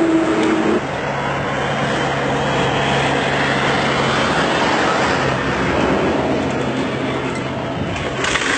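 Road vehicle noise: an engine running with a steady low hum over dense road and traffic noise.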